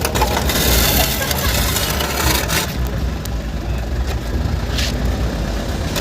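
A truck's engine running steadily, with a noisy hiss over it.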